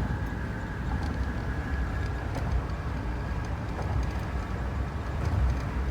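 Camper van driving on the road: a steady, low engine and road rumble.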